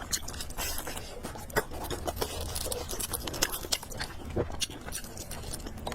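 Close-up chewing of spicy fried noodles and pork, heard as a run of irregular mouth clicks.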